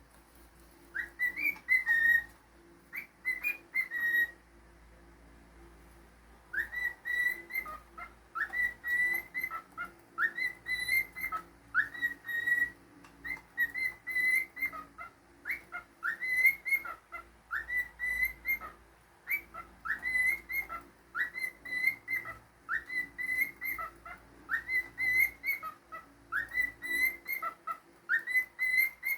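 Pet cockatiel whistling a tune in repeated short phrases, each a quick upward note held level, about one a second. After a first short burst there is a pause of about two seconds, then the whistling runs on without a break.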